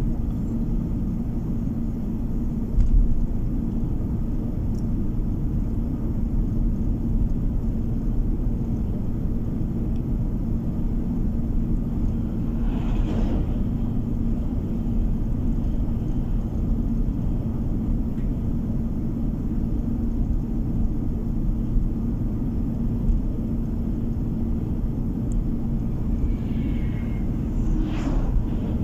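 Car driving, heard from inside the cabin: steady road and engine rumble with a constant low hum. There is a short bump about three seconds in, and two brief swells of noise, one near the middle and one near the end.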